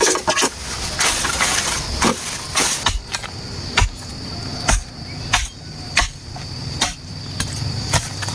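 Repeated sharp knocks of hand-tool work on bamboo, about one a second at an uneven pace. A steady high-pitched tone joins from about three seconds in.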